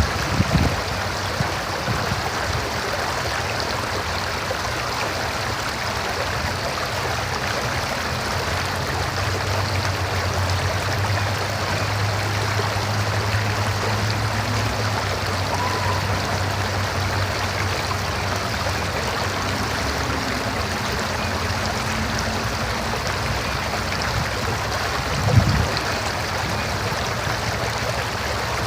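River water running steadily over rocks, a continuous even rush. A faint low hum sits beneath it for a stretch in the middle, and a brief low thump comes near the end.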